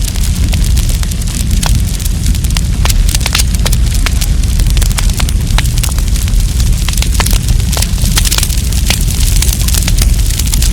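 Wood campfire burning, with a steady low rumble of flames under frequent, irregular sharp crackles and pops.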